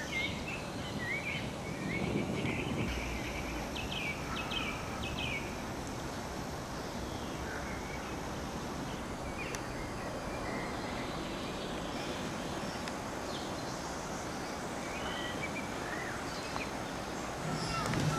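Small birds chirping, a run of quick chirps in the first few seconds and scattered calls after, over steady background noise.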